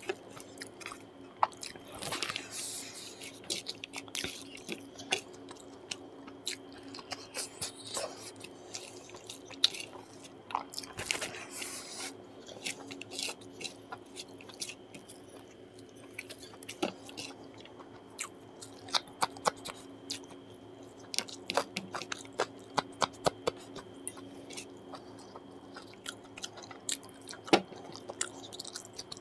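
Close-miked chewing of a mouthful of rice and curry, with frequent sharp wet clicks and smacks from the mouth.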